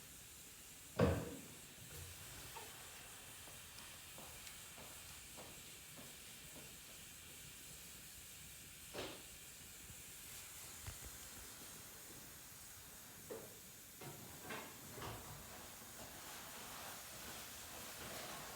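A few scattered knocks and clicks over a faint steady hiss: one sharp knock about a second in, another partway through, and a run of lighter clicks near the end.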